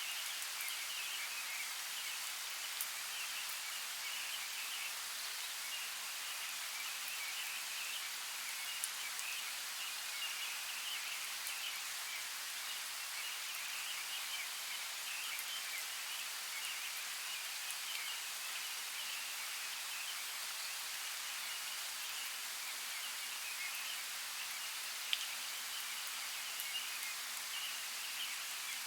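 Steady outdoor nature ambience: an even hiss with a busy chittering texture in the upper-middle range and a few sharp ticks, the loudest about 25 seconds in.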